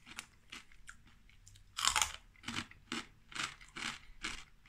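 Crunching as someone bites and chews a hard, crispy Mr Porky's pork scratching strip: one big crunching bite about two seconds in, then sharp crunching chews about twice a second.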